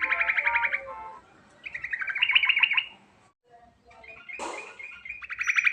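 Yellow-vented bulbul (trucukan) singing a rolling series of rapid, pulsed trills and chattering phrases. There is a short break about three seconds in before the next fast trill.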